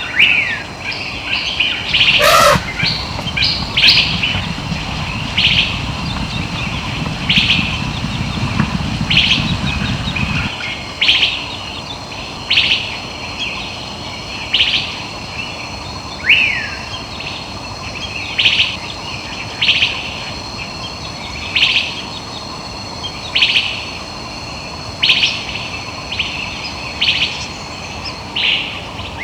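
A bird repeating a short, high call about every second or two, with an occasional falling whistle, over a steady faint high hum. A low rumble runs under the calls and stops suddenly about ten seconds in.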